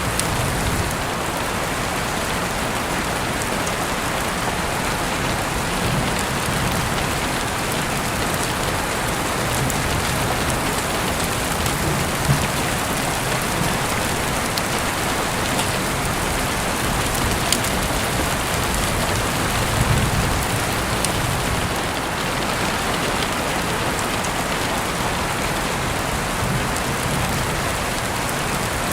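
Steady rain falling, with a few sharp clicks of single drops and a low rumble that swells and fades now and then.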